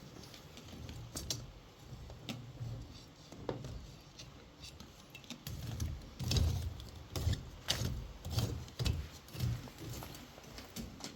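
Irregular clicks, clinks and soft thuds of small objects being handled, growing busier about halfway through.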